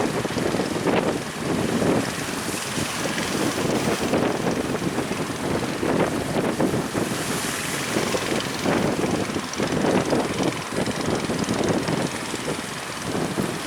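Strong wind gusting and buffeting the microphone, rising and falling irregularly, over a rough sea with waves.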